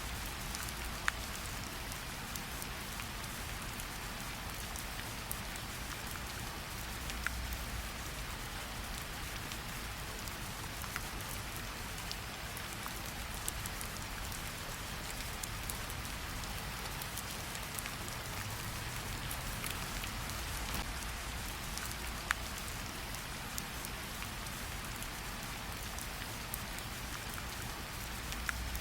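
Steady rain falling, an even hiss, with a few sharper single drop hits scattered through.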